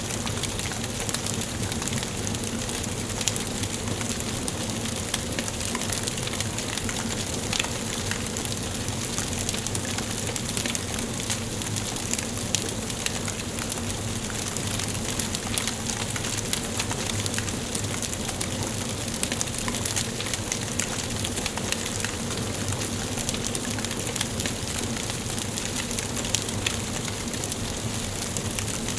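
Wood fire burning in a fireplace: a steady hiss with many small crackles and pops.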